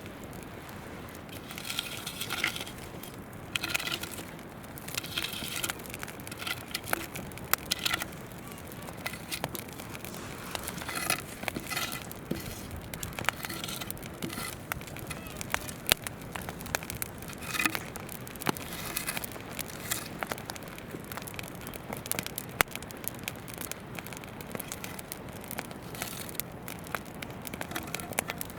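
Wood campfire crackling, with frequent sharp pops and snaps over the steady rush of a flowing river.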